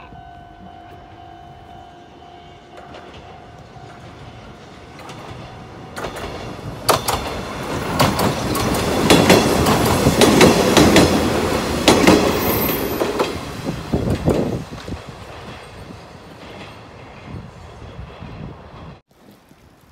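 Konan Railway Konan Line electric train of stainless-steel cars passing close by. It builds up from about six seconds in, its wheels clacking over the rail joints loudest around the middle, then fades away.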